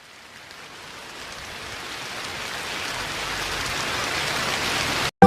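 Steady rain falling, growing gradually louder, then cutting off abruptly near the end.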